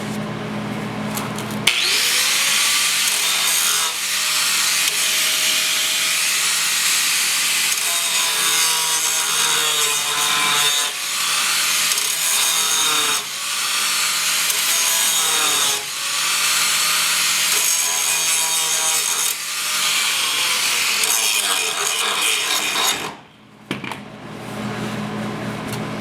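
A power grinder working over sheet-metal welds in passes, easing off briefly every few seconds with its pitch wavering under load. It starts about two seconds in and stops a few seconds before the end.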